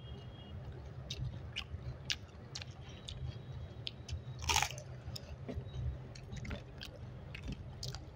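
People eating by hand: wet chewing and mouth clicks, with crisp crunches from papad being bitten and chewed, the loudest about four and a half seconds in.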